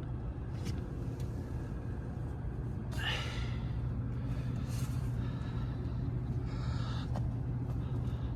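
Rooftop gas heating unit running with a steady low hum. A few light clicks of handling on its panels, and a brief rustle about three seconds in.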